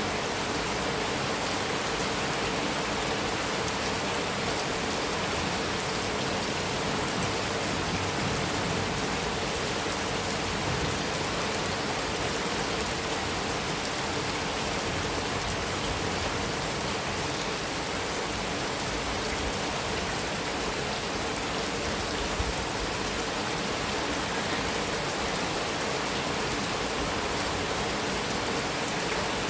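Steady heavy rain drumming on a metal roof, an even unbroken hiss of drops, with one brief sharp click about two-thirds of the way through.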